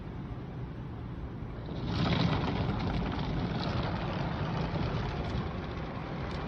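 Automatic car wash working over a car, heard from inside the car: a steady low rumble, then about two seconds in a much louder washing noise starts and carries on.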